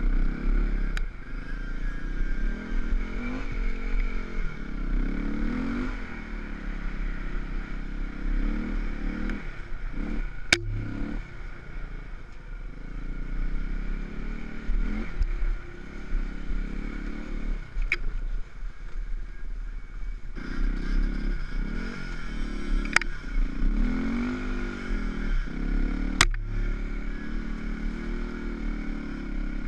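Enduro dirt bike's engine running at low revs on a rough trail, the revs rising and falling with the throttle. A few sharp knocks punctuate it, about four in all.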